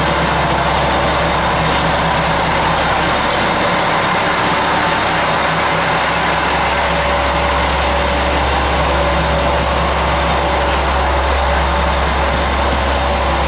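Diesel railcar engine idling steadily, heard from inside the passenger cabin.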